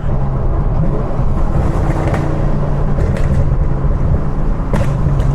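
Chevrolet Camaro ZL1 supercharged V8 running steadily under way, a constant engine drone.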